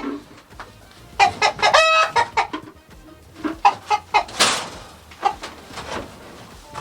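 Chickens clucking in short runs of calls, with one longer, steady-pitched call about two seconds in. A brief rustling noise comes about four and a half seconds in.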